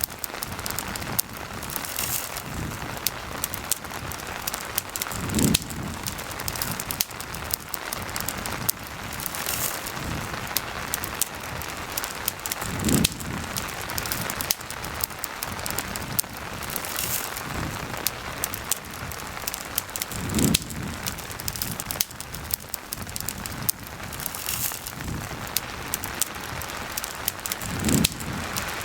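Steady rain falling, mixed with a campfire crackling and popping in many sharp clicks. A low thump recurs about every seven or eight seconds.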